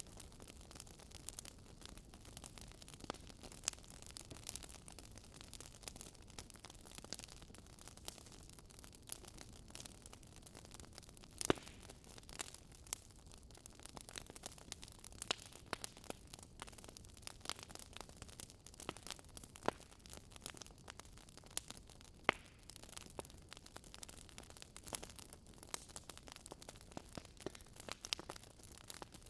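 Wood fire in a fireplace burning and crackling, with irregular sharp pops and snaps over a low hiss; two louder pops, about 11 and 22 seconds in.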